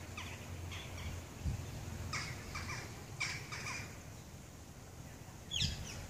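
Small songbirds singing outdoors: clusters of short chirps and trills, busiest in the middle, with a quick falling whistled note near the end. A faint low rumble and a couple of soft low bumps lie underneath.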